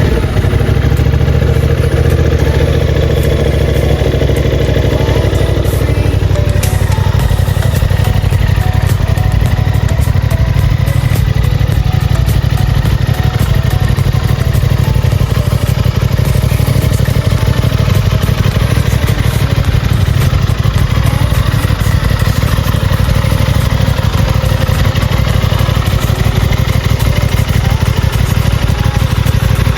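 Aprilia Tuono 660 Factory's parallel-twin engine running steadily at a near-constant speed, without revving.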